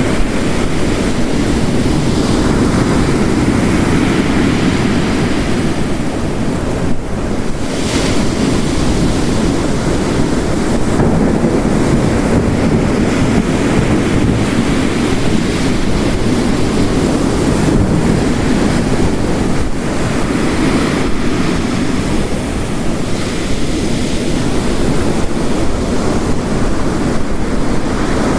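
Heavy rain and ocean waves crashing on a rocky coast, mixed into one dense, steady wash of noise that swells and eases slightly.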